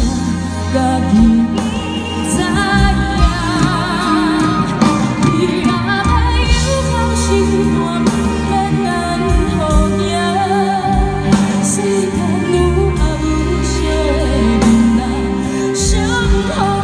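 A woman singing into a microphone with vibrato, backed by a live pop band of electric guitar, bass guitar, keyboard, violin and drums, played through a PA.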